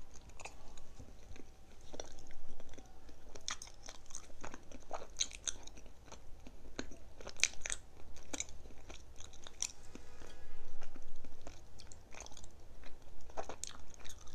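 Close-up crunching and chewing of a crisp green matcha treat: a quick series of sharp, crackly crunches as it is bitten and chewed.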